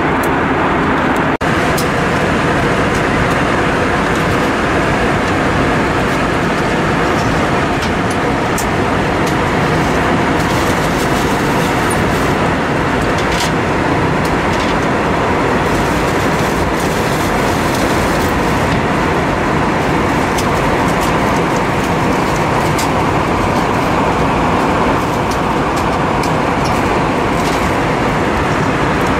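Steady engine and airflow noise of an Airbus A320-232 heard inside the passenger cabin, with a faint steady hum over the noise.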